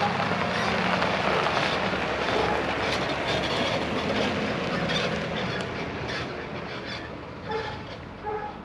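Truck driving: steady road and engine noise that eases off toward the end, with a few short squeaks near the end.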